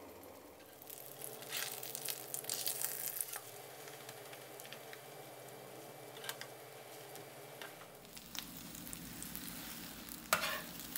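Egg batter with mussels frying in hot oil in a pan, a quiet crackling sizzle that is busiest a couple of seconds in. Near the end a slotted spatula clicks and scrapes against the pan.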